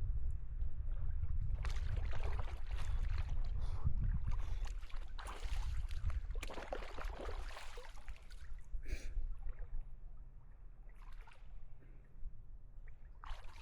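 Lake water splashing in irregular bursts as a person washes himself while standing in the water, heaviest in the first half and sparser later, over a steady low rumble.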